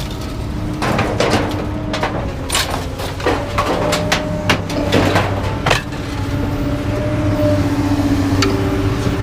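Scrap metal being handled: a dozen or so sharp clanks and knocks, close together in the first half and one more near the end, over a steady engine hum.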